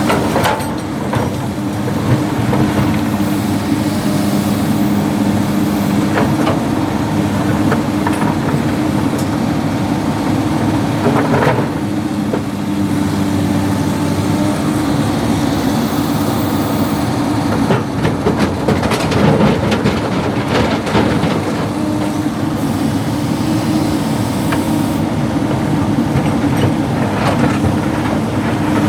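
Hydraulic excavator's diesel engine running steadily under load while loading stone, with scattered knocks and clatter of rock, heaviest in a cluster a little past the middle.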